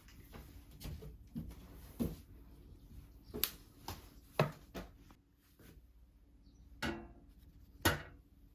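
A series of sharp knocks and clicks, about five spread across a few seconds, from household objects being handled and set down, with faint rustling between them.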